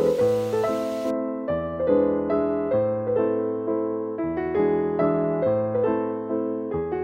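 Background music: gentle piano playing repeating broken-chord phrases.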